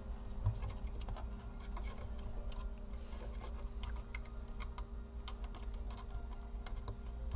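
Light, irregular clicks and taps of small laptop parts being handled while the speaker cable is plugged into the motherboard.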